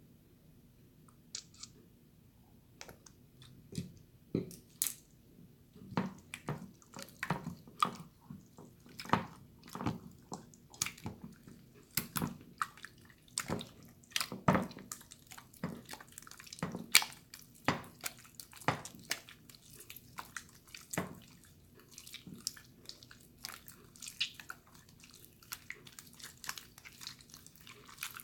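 Clear water slime being squished and pressed by hand, making irregular wet squelches and pops. They are sparse at first and then come one to three a second.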